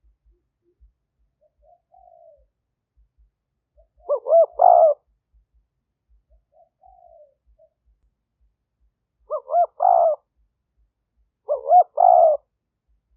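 Spotted dove cooing: three loud phrases of a few quick coos each, with a fainter, single falling coo before the first and the second. It is the call of a decoy dove, used to draw in wild doves.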